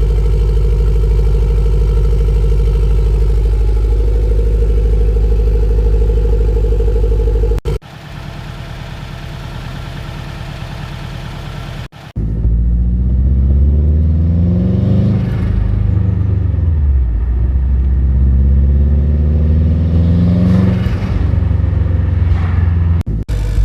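Turbocharged Subaru Forester STI flat-four engine during a test drive: a steady engine drone, then a quieter stretch, then the revs climbing and falling twice under acceleration. The sound breaks off abruptly between these parts.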